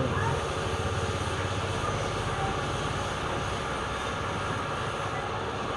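Steady mechanical running noise with a low rumble underneath, even throughout.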